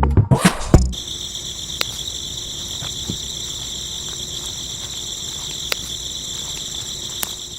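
Crickets chirping in a steady high-pitched trill, with a few faint clicks.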